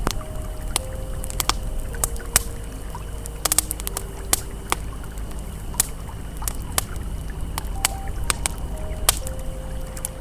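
Campfire crackling with irregular sharp pops, over the steady rush of a flowing river. Soft, slowly changing sustained tones of ambient music sit underneath.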